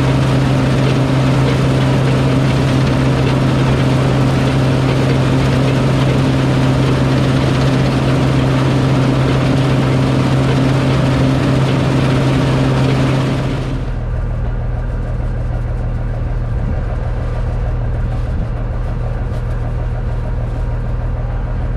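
Farm harvest machine's engine running steadily under a loud, dense mechanical rush. A little past halfway the rush cuts off abruptly, and the engine carries on at a lower, steady level.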